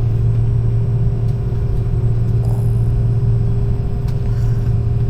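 Steady low cabin rumble of an airliner on the ground, with a constant deep hum and a fainter steady whine above it.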